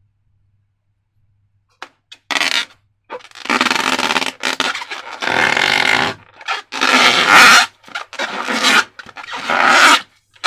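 Irregular bursts of scraping and rubbing from hands working slime and rubber balloons, starting about two seconds in.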